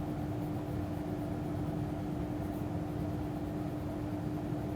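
A steady background hum: one constant tone over a low, even rumble, unchanging throughout.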